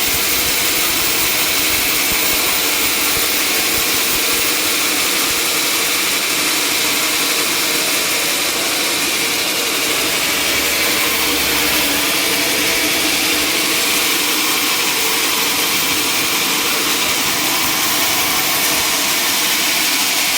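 Sawmill machinery running: a loud, steady, even noise with no breaks.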